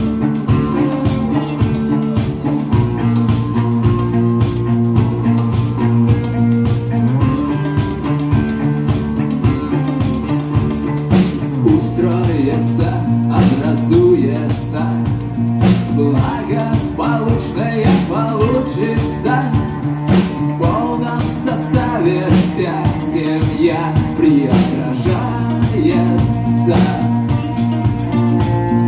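A live rock band playing the instrumental opening of a song: sustained chords over a steady drum beat, with a wavering lead melody coming in about twelve seconds in.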